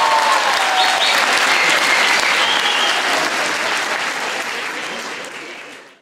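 Theatre audience applauding, fading out toward the end and cutting off abruptly.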